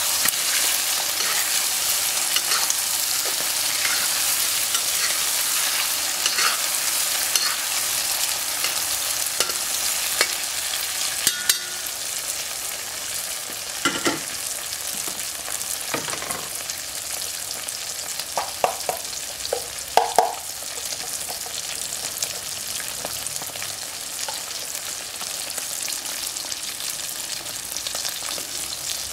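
Eggs, sausage and peppers sizzling in hot oil in a wok, a steady hiss that eases a little after the first half. A few sharp clicks and scrapes of the metal spatula against the wok come about halfway through.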